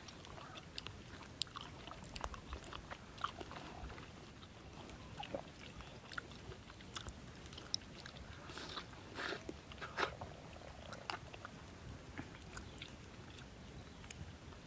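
A person chewing and biting into pieces of fire-roasted chicken, with irregular small crunches and clicks.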